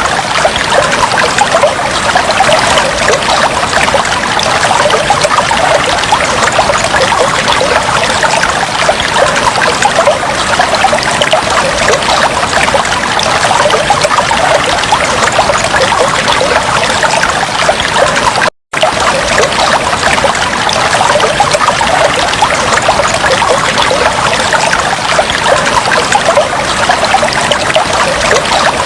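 Fish tank water trickling steadily, a dense run of small splashes and drips. It cuts out for a split second about two-thirds of the way through, then carries on unchanged.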